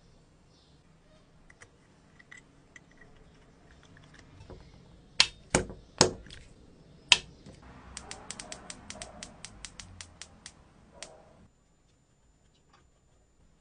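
A few loud sharp knocks, then a quick, even run of mechanical clicks, about five a second, that stops suddenly.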